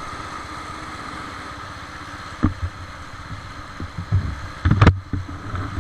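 Kart engine running steadily, heard onboard, then a series of irregular knocks and thumps from about two and a half seconds in, the loudest near the end.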